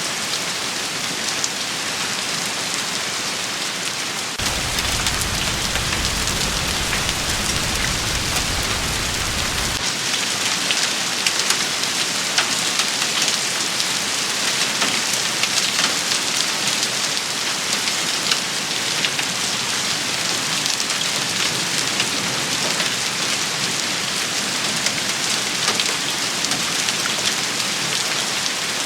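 Steady rain shower pattering on surfaces, with many fine drop ticks. A low rumble sits under it from about four seconds in to about ten seconds in.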